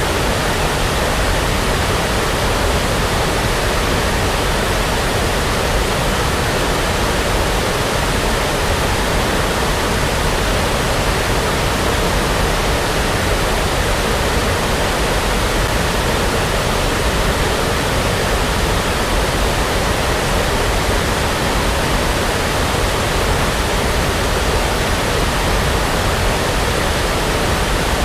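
Steady, unchanging brown noise: an even hiss with its weight toward the low end.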